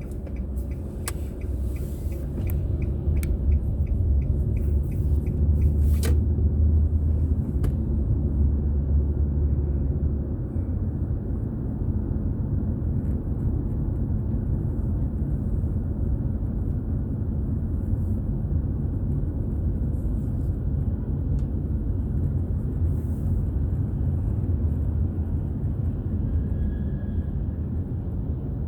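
Car driving on the road, heard as a steady low rumble of engine and tyre noise that swells for a few seconds under acceleration. A regular faint ticking runs through the first six seconds or so.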